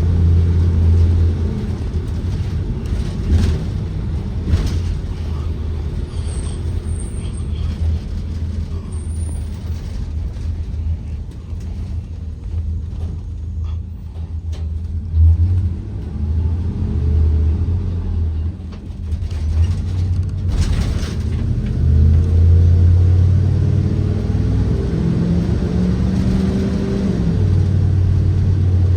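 Blue Bird Vision school bus's Ford 7.3L V8 gasoline engine running while the bus drives, heard from aboard, with a low drone and the engine note climbing as it accelerates around the middle and again in the second half. A few short rattles or knocks come through about 3 to 5 seconds in and near 21 seconds.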